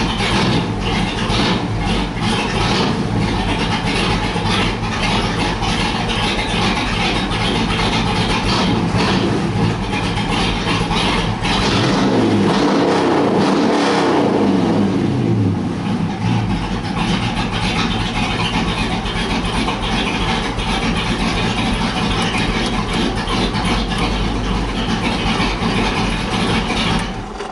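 A small-block Chevy 350 V8 running through a loud open 'boom tube' exhaust, idling, then revved once about halfway through and falling back to idle. The sound cuts off suddenly at the end.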